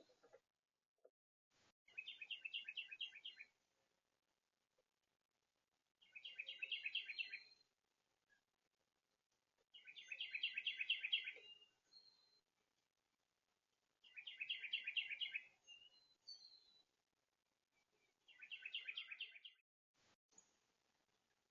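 A songbird singing a fast trilled song of rapidly repeated notes, each song about a second and a half long, five times at roughly four-second intervals.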